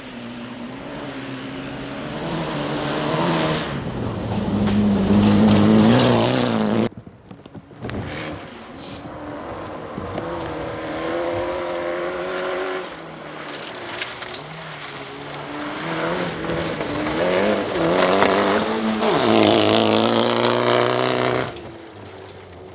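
Fiat Egea rally car's engine revving hard and accelerating, its pitch climbing until it cuts off suddenly about seven seconds in. It then builds and climbs again before dropping away near the end.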